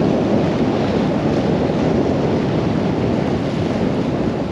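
Storm-force wind buffeting the microphone: a loud, steady, low rumble.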